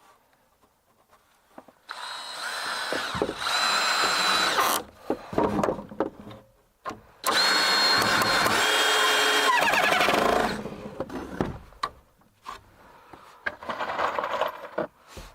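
Handheld power tool running in two bursts of about three seconds each, with a whine, between quieter knocks and scrapes of work.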